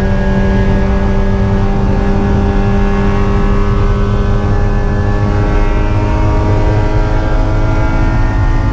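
Spec Miata race car's Mazda four-cylinder engine running at high revs under load, its pitch drifting slowly lower, then rising again after about five seconds.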